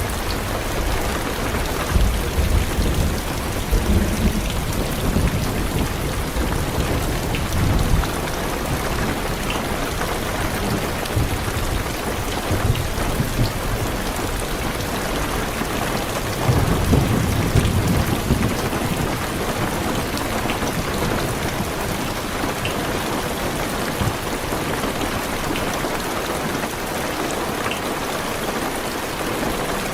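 Heavy rain pattering on a car's roof and windows, a steady hiss with scattered drop ticks, and rolling thunder rumbling low through the first several seconds and again about seventeen seconds in.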